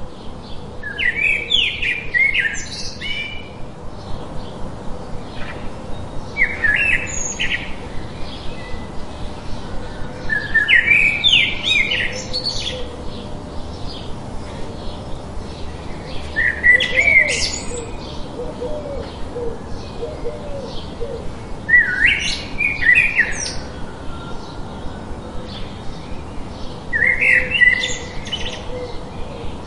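A songbird singing a short, complex phrase about every five seconds, over a steady hiss.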